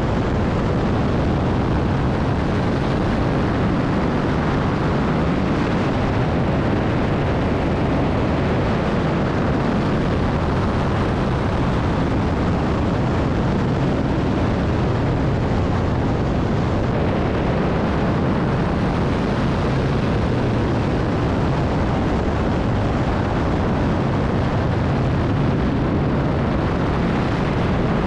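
Propeller aerobatic plane's piston engine running steadily under heavy rushing wind noise, heard close up from a camera mounted on the aircraft.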